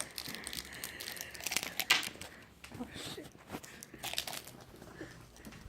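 Plastic candy wrapper crinkling, handled in a run of short, irregular crackles.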